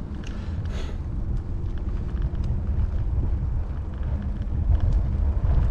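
Wind and ride rumble on an action camera's microphone while riding a bike: a steady, heavy low rumble with a thin hiss above it.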